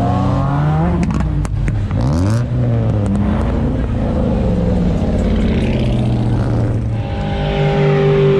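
Car engine revving hard while the car spins donuts, its pitch climbing and dropping several times and then held high and steady near the end, with the tyres spinning against the pavement.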